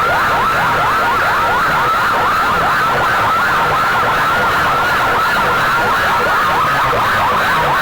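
Siren-style yelping sound effect played loud through a large DJ sound-system speaker rig: a quick rising sweep repeated about four times a second, without a break.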